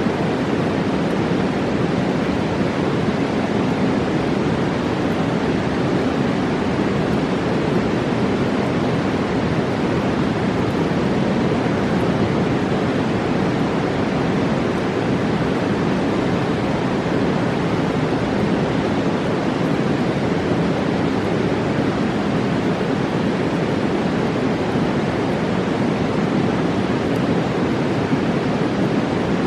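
A fast mountain river rushing steadily, a deep, even roar of whitewater without a break.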